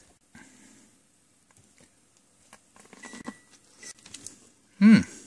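Biting into and chewing a buttered ear of corn on the cob: faint, scattered wet mouth and crunching sounds. Near the end comes a short voiced sound that falls in pitch, louder than the chewing.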